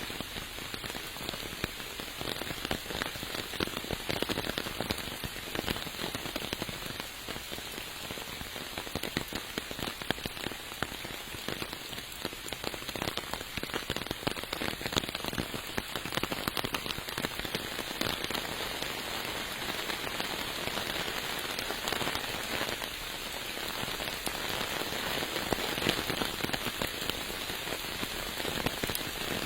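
Steady rain falling, with a dense mass of small drop ticks on the surfaces around.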